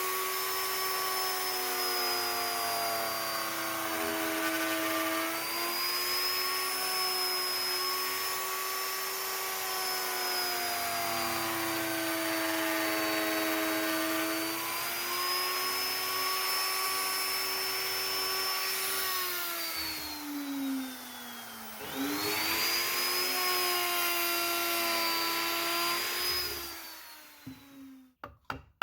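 Handheld electric power carving tool running at high speed on wood, its whine wavering slightly in pitch. It winds down about twenty seconds in, speeds back up, and stops near the end.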